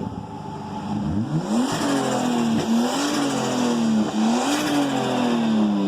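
Turbocharged drift-car engine revved hard about a second in and held high with two quick throttle dips, its blow-off valve blocked off so the turbo flutters ('stu') as the throttle closes.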